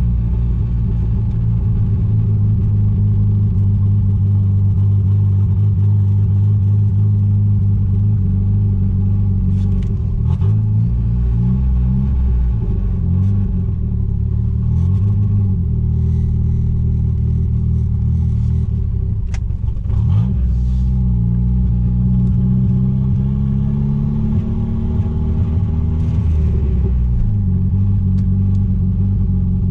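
Mitsubishi Starion/Chrysler Conquest's turbocharged G54B four-cylinder engine running while the car is driven, its note dropping and climbing again several times as speed and gears change.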